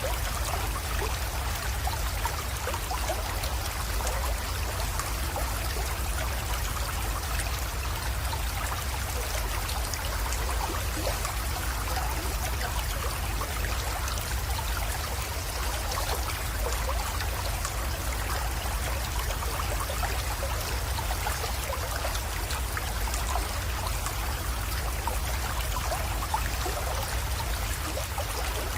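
Small creek steadily trickling and splashing as it flows into a pond, with a constant low rumble underneath.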